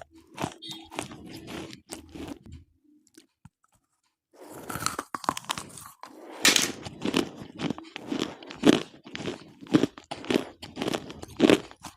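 A person biting and chewing slate pencils: sharp, brittle crunches, a short pause about a quarter of the way through, then steady crunching with a hard bite every half second or so.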